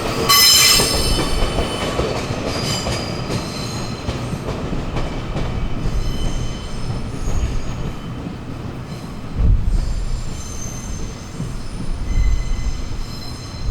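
A train rolling slowly with its wheels squealing against the rails: high shrill squeals, loudest at the start and returning in the middle and near the end, over a low rumble. Two heavier low thumps come about two thirds of the way through and again near the end.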